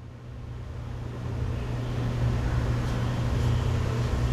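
Steady low mechanical hum that grows louder over the first two seconds, then holds.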